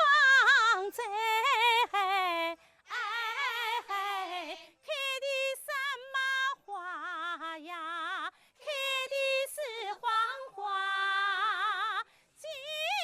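A woman singing a Chinese folk song solo and unaccompanied, in short high phrases with strong vibrato and brief pauses between them.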